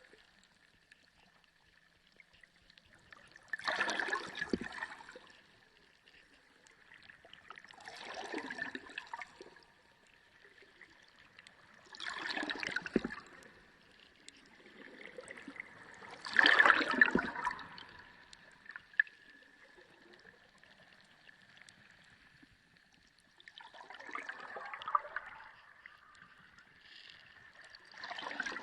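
Underwater sea sound: bursts of gurgling, bubbling water about every four seconds, with a lull near the middle, over a faint steady high hum.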